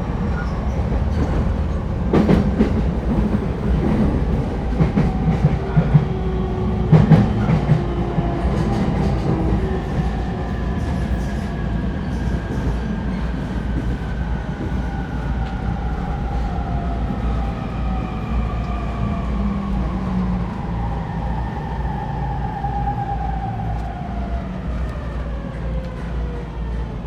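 Inside an E231-1000 series electric train: a steady low wheel-and-rail rumble, with a few sharp clacks over rail joints in the first several seconds. After that, the traction motor whine falls steadily in pitch as the train slows.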